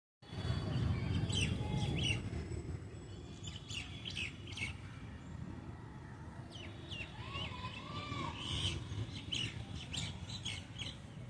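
Birds chirping in repeated short, high calls over a steady low rumble that is loudest in the first couple of seconds.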